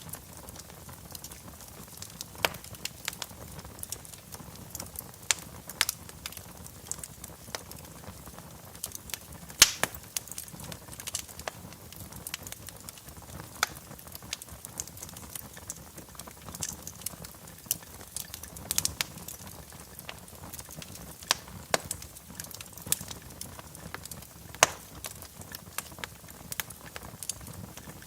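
Wood fire burning in a fireplace, crackling: irregular sharp pops and snaps over a soft low rush of flames, with a few louder pops scattered through.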